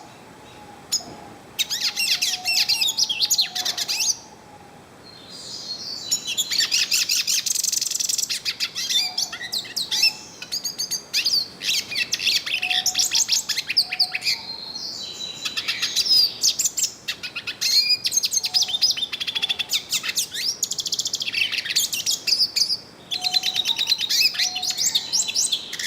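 Yellow-faced siskin (pintassilgo-do-nordeste) singing: long phrases of fast, high twittering warbles broken by short pauses.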